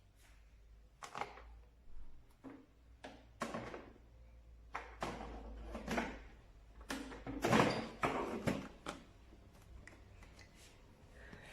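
Irregular knocks, clatters and scrapes of objects being handled, about a dozen in quick succession, loudest about eight seconds in.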